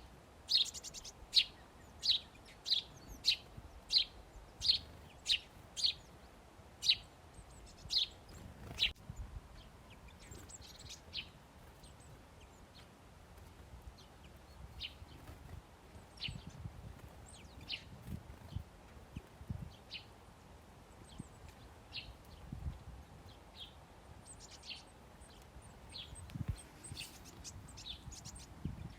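Small birds chirping at a feeder: one short, high call repeated about twice a second for the first nine seconds, then scattered fainter calls. A few soft low thumps come in the second half.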